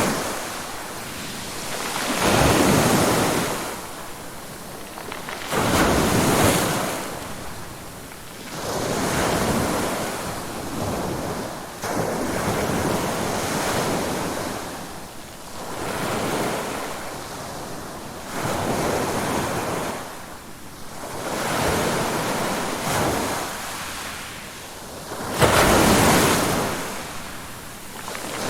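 Ocean waves washing in and drawing back, a rushing surge every three to four seconds, about eight in all, with the loudest near the end.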